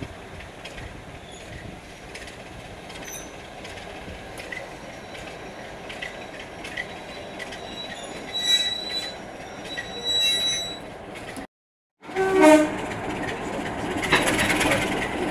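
Passenger train running along the track, heard from the carriage: steady wheel and rail noise, with brief high wheel squeals around the middle. The sound cuts out for about half a second near the end, then returns louder.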